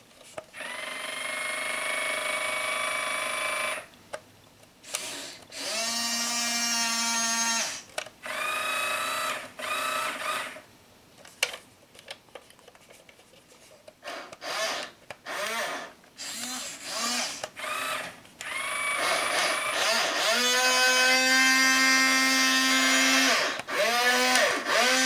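Small electric gear motors of a Hobby Engine 1:12 scale radio-controlled excavator whining in repeated bursts as its functions are run from the remote. Each burst rises in pitch as it starts, then holds steady. Long runs of a few seconds alternate with several short blips.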